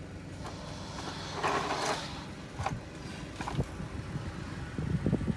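Hand tools being handled and rummaged through: a rustling scrape about one and a half seconds in, then a few light clicks and knocks, over a steady low hum.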